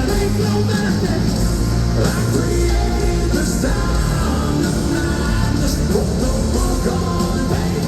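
Loud live rock music: a rock band playing with distorted electric guitars, bass and drums, heard as amplified concert sound.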